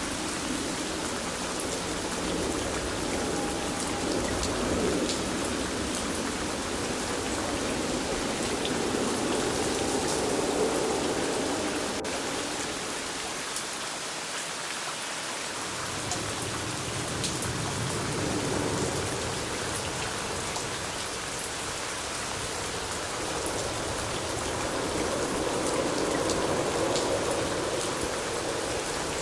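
Steady rain falling, with scattered drops ticking sharply over the even hiss and a deeper rush that swells and eases several times.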